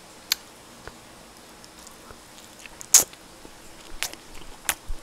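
Eating utensils clicking and tapping against a black plastic food container as a piece of grilled duck is picked up, four sharp clicks in all, the loudest about three seconds in.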